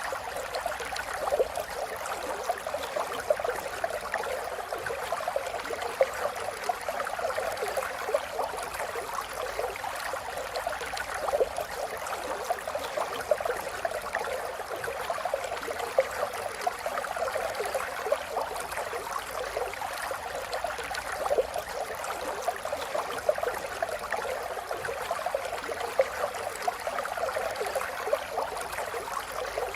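River water flowing steadily, a continuous babbling wash full of small quick splashes and gurgles.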